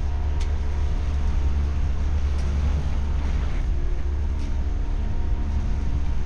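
Motorboat engine running steadily at a constant pitch under heavy low wind rumble on the microphone.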